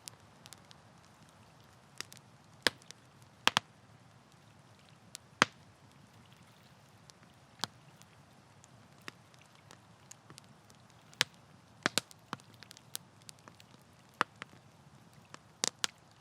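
Wood campfire crackling, with sharp pops at irregular moments over a faint hiss of burning.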